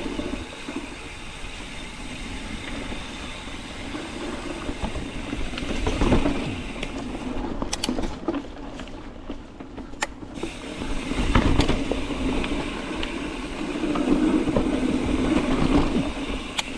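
Mountain bike rolling along a dirt trail: steady tyre and drivetrain noise with swells over rough patches and a few sharp clicks and knocks from the bike over bumps.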